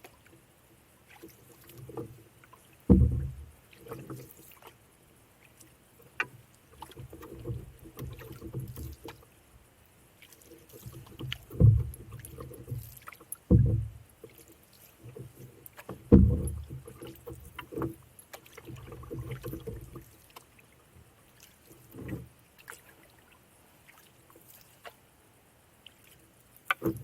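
Canoe being paddled: a series of irregularly spaced paddle strokes with water swishing, each lasting a second or two.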